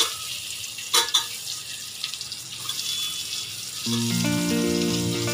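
Sliced onions dropped into hot oil and spices in an aluminium pot, sizzling steadily, with a couple of sharp clatters at the start and about a second in. Background music with held notes comes in near the end.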